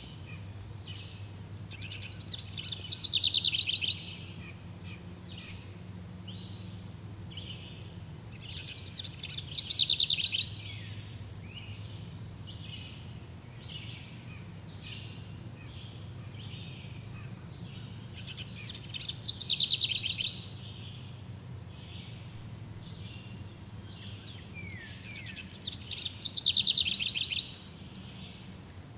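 A songbird repeats a loud, fast trilled phrase that falls in pitch, four times about seven seconds apart, with softer chirps from other birds between and a low steady hum underneath.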